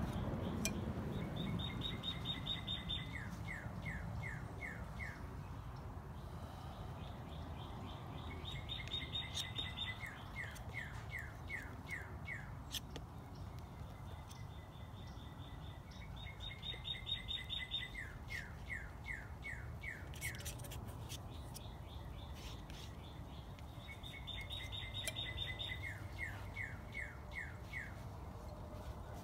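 A songbird sings the same short song four times, about eight seconds apart: a quick trill, then a run of about six falling whistled notes.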